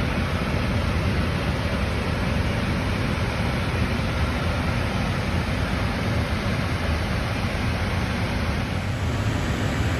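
Steady rushing noise inside an Airbus A321neo cockpit in flight: airflow and engine noise, even and unbroken, strongest in the low rumble.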